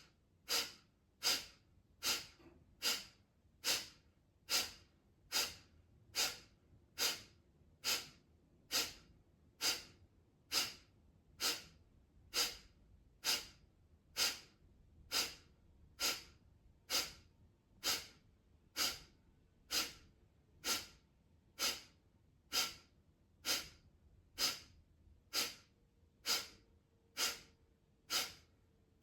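Kapalbhati pranayama breathing: short, forceful exhalations through the nose, evenly paced at a little over one a second, with silent passive inhalations between them.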